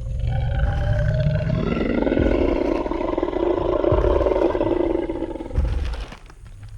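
Sound-effect Tyrannosaurus rex roar: one long, rasping, pitched roar lasting about five and a half seconds, with heavy low rumbling beneath. A deep thud about five and a half seconds in.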